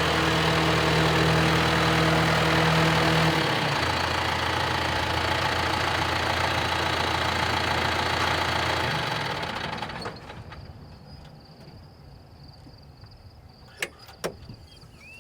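Tractor engine running steadily, its pitch dropping a step about three and a half seconds in, then fading away around nine to ten seconds. A couple of sharp clicks follow near the end.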